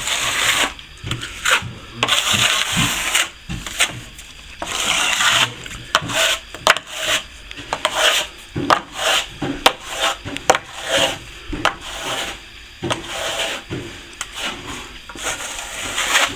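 A plasterer's trowel scraping over freshly applied plaster in repeated irregular strokes, each up to about a second long: the final polish of the setting finish coat.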